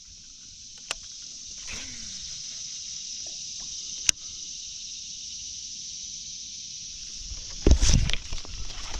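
Steady high-pitched drone of insects. A few sharp clicks and one falling whistle-like glide about two seconds in, then loud knocks and handling noise near the end.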